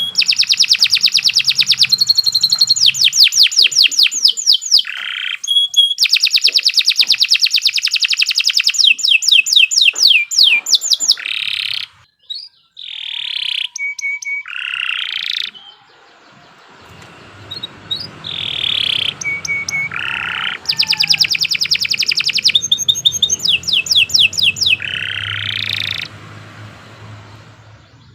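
Domestic canary singing a long, loud song of fast rolling trills and clear whistled notes, breaking off briefly about twelve seconds in before starting again.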